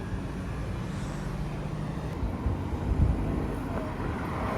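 Bus and street traffic: a steady low diesel engine drone, with a brief louder rumble about three seconds in.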